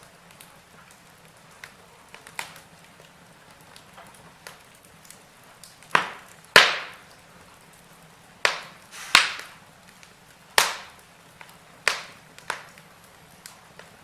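Logs burning in a fireplace, crackling and popping over a faint steady hiss: small crackles at first, then several loud, sharp pops in the second half.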